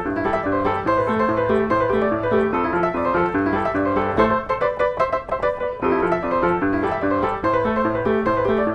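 Piano music, a steady pattern of quick notes over a repeating bass, with a busier run of notes in the middle.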